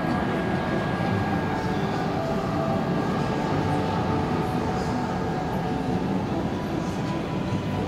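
Steady low mechanical rumble with a faint, steady high whine, with no pause or change.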